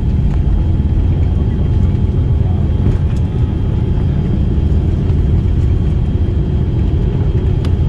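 Airliner cabin noise heard from a passenger seat: a steady low rumble of the engines and airframe, with a faint steady high whine above it.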